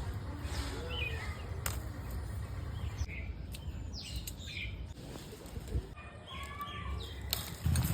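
Birds chirping in a garden: scattered short calls, some gliding in pitch, over a steady low rumble.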